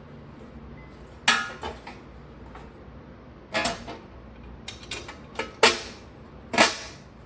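Metal tools and parts clanking and clinking as they are handled, in a series of sharp, irregularly spaced knocks, most of them in the second half.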